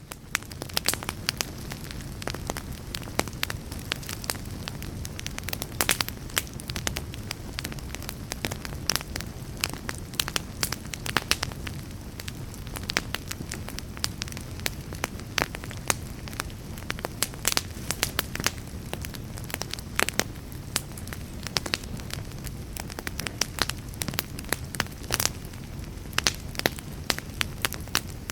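Fire crackling in a fireplace: frequent sharp, irregular pops and snaps over a steady low rumble of burning.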